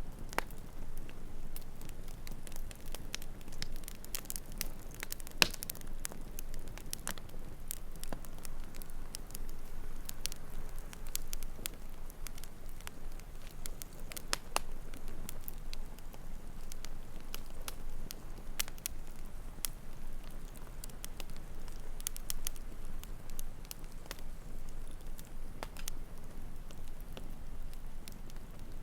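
Wood campfire crackling, with scattered sharp pops over a steady low burning sound; one pop about five seconds in stands out as the loudest.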